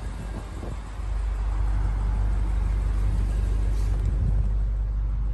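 Low, steady rumble of the BMW Alpina B6 xDrive Gran Coupe's twin-turbo V8 idling. It gets louder about a second in and then holds steady.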